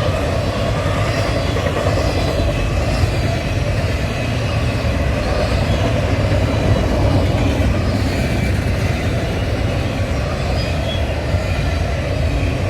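Freight train rolling past close by on the main line, a steady loud rumble of wheels on rail that does not let up.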